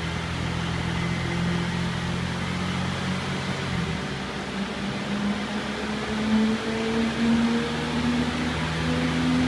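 Audi A5 Sportback engine driving its wheels on a chassis dynamometer's rollers. It holds a steady note for about four seconds, then the pitch changes and climbs slowly and steadily as the revs build under load, as in a dyno power run.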